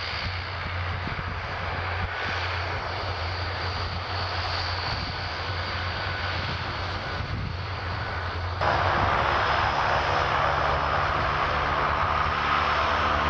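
An Antonov An-32's two Ivchenko AI-20D turboprop engines running steadily while the aircraft is lined up for takeoff: a low, even drone with a strong hum. About two-thirds of the way in, the sound jumps suddenly louder and harsher and holds there.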